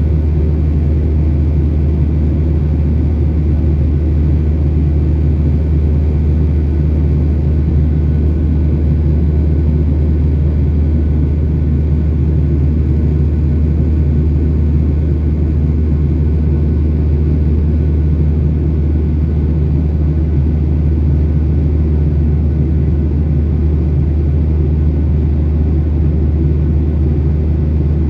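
Steady low rumble of a Boeing 737-800's CFM56-7B jet engines and airflow, heard from inside the passenger cabin over the wing.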